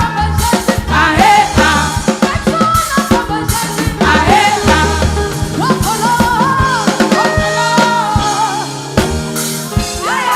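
Upbeat gospel praise music: a band with drum kit and bass guitar playing under a singing voice.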